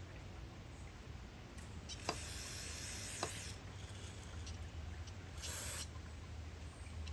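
Two short spraying hisses on a carburetor being cleaned, the first about a second and a half long and the second about half a second, with a couple of sharp clicks around the first.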